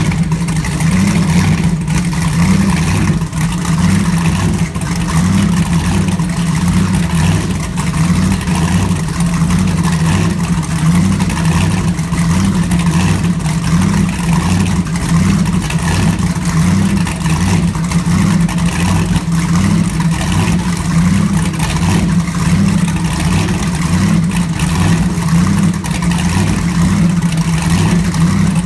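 Twin iron-headed, supercharged and intercooled 509 engines of a Cigarette 38 powerboat, idling loudly through dry exhaust with a steady, loping pulse.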